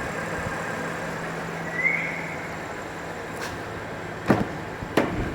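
2015 BMW M4's twin-turbo inline-six idling steadily, with a short chirp about two seconds in and two sharp clacks near the end, under a second apart.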